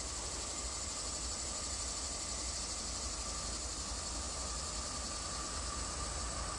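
Faint, steady low rumble of a Union Pacific intermodal freight train approaching from a distance, still out of sight, under a steady high hiss.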